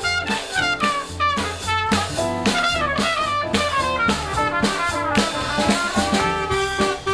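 A jazz band playing swing, with brass horns carrying the melody over a drum kit keeping a steady beat.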